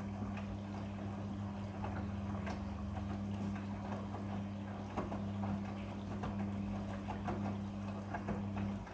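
Midea front-loading washing machine running its quick wash cycle with a blanket inside. Its motor hums steadily while the drum turns, with water sloshing and light irregular knocks. The main hum cuts off just before the end.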